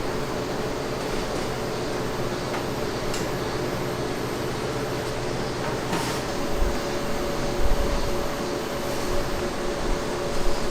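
Steady machine hum with a couple of steady tones, one of which shifts about six seconds in, and a few dull low thumps in the second half.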